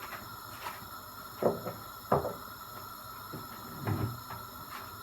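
Kitchen handling noises: three short knocks and clatters, roughly one and a half, two and four seconds in, over a faint steady hum.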